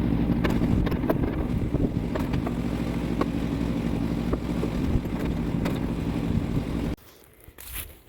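Small gasoline engine running steadily at a constant speed. It cuts off abruptly about seven seconds in, leaving faint crunching and crackling.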